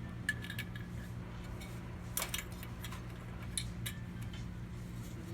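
Light clicks and clinks of small hard parts being handled, scattered and irregular, over a steady low hum.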